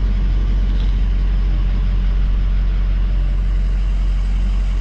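Pickup truck engine running steadily with a low rumble while the truck and loaded trailer sit on a scrapyard scale.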